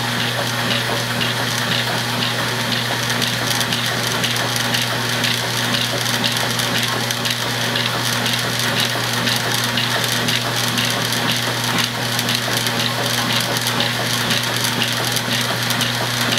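Washing machine running with a steady low hum and a noisy rattle, with faint regular ticks about twice a second; the sound of a washer whose owner is unsure whether it is broken.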